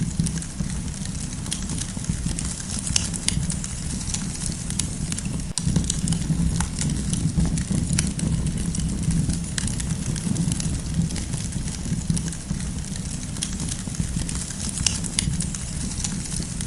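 Campfire burning: frequent sharp crackles and pops of the burning wood over a steady low rumble of the flames.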